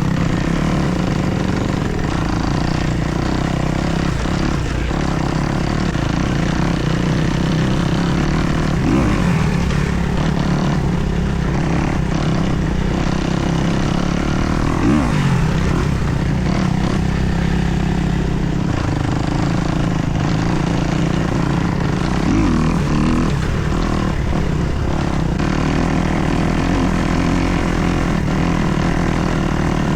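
Kawasaki KX250 dirt bike's 250 cc four-stroke single-cylinder engine running at a steady pitch, without big revs.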